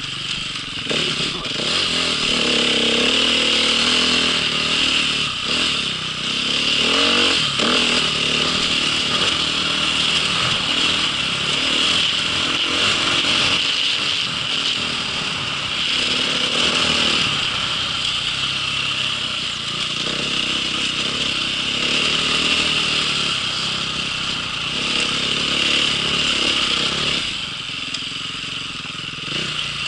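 Small off-road vehicle's engine running under way, its pitch rising and falling with the throttle as it is ridden.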